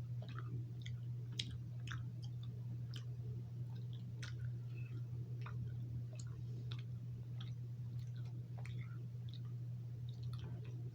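Mouth sounds of a person eating s'mores-flavoured cotton candy: scattered small wet clicks and smacks while chewing, over a steady low hum.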